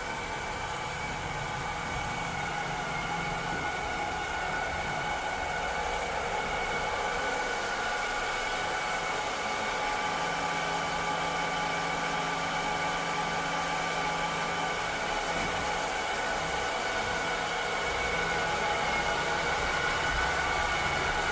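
Cleaning robot running steadily: a continuous motor whir and air rush with several steady whining tones, a low hum that comes and goes, and a slight rise in loudness near the end.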